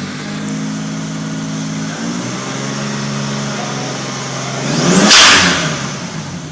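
Toyota Supra's twin-turbo 2JZ-GTE straight-six revved and held at raised revs, climbing in pitch. About five seconds in, the revs sweep up and a loud, roughly one-second blow-off valve whoosh vents as the throttle closes.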